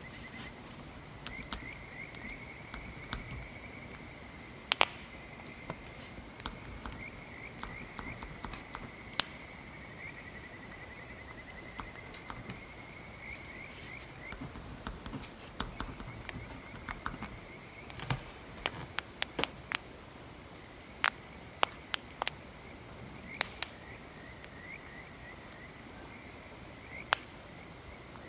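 Crackling campfire: scattered sharp pops and snaps, thickest in the second half, over a steady high chirring trill of night insects or frogs.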